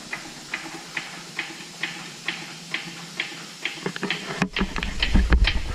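Hydraulic floor jack being pumped, its handle clicking steadily about twice a second as it lifts the truck at the differential. A low rumble sets in near the end.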